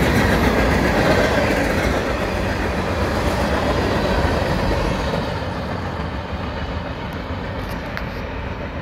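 Union Pacific manifest freight train's tank cars rolling past close by, wheels clattering over the rails. The sound fades steadily from about five seconds in as the train draws away.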